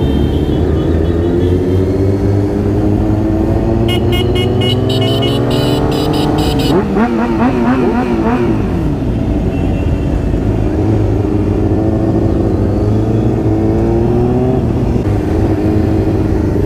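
Motorcycle engines running at low parade speed, their pitch rising and falling as bikes open up and pass. A rapid run of sharp ticks comes about four seconds in and lasts a few seconds.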